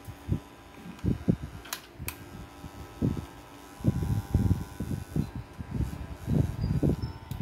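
Close handling noise as small parts and wire are worked by hand: irregular low knocks and rubbing, with two sharp clicks about two seconds in.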